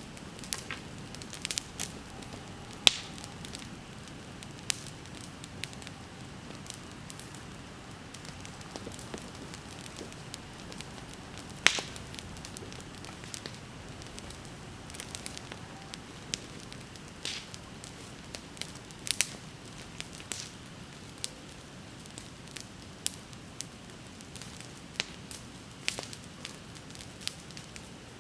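Wood bonfire crackling and popping, with sharp irregular snaps over a steady low rush of burning, the loudest pops about three and twelve seconds in.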